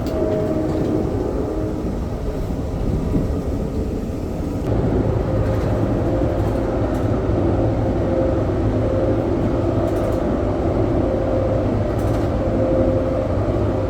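Amtrak passenger train running along the track, heard from inside the passenger car: a steady low rumble with faint humming tones, growing a little louder about five seconds in.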